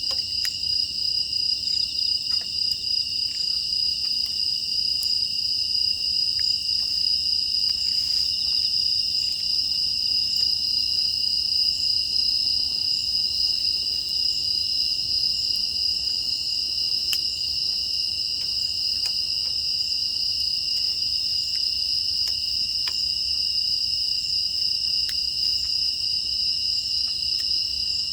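Steady chorus of crickets and other grass insects, a continuous high trilling, with faint scattered clicks throughout.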